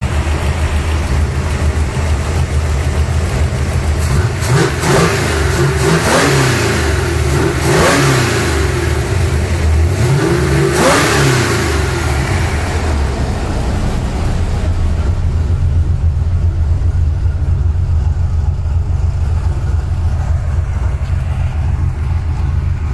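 Carbureted 5.0-litre (302) V8 in a Ford Mustang LX, freshly tuned, idling and then revved up and back down four times between about four and twelve seconds in, before settling back to a steady idle.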